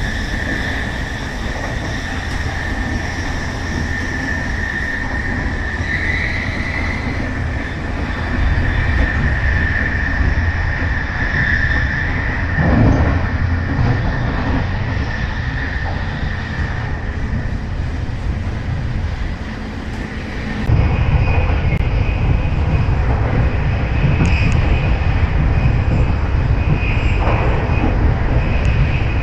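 Electric passenger train running along the track: a steady rumble with a high, steady whine, turning abruptly louder and deeper about twenty seconds in.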